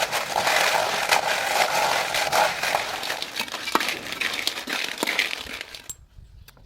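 Frying in a pan: a dense sizzle and crackle with many sharp clicks, fading and stopping about six seconds in.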